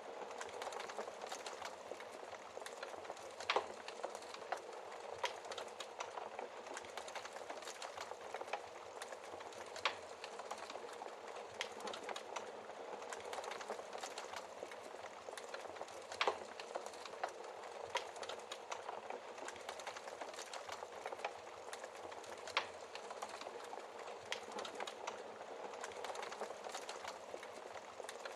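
Wood fire crackling in a fireplace: a steady hiss of burning with frequent sharp pops and snaps, a few louder pops scattered through.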